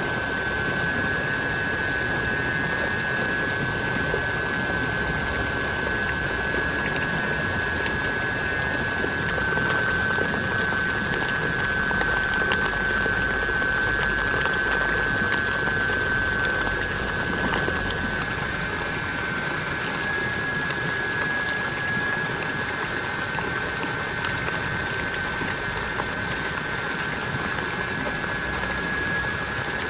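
Steady rain falling. Over it run a steady high tone and a fast, pulsing trill.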